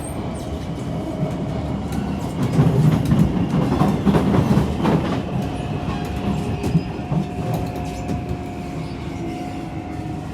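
Kawasaki C151 metro train heard from inside a car while running: a steady rumble of wheels on rail, with a louder run of clatter and clicks over track joints in the middle and a steady whine coming in about halfway.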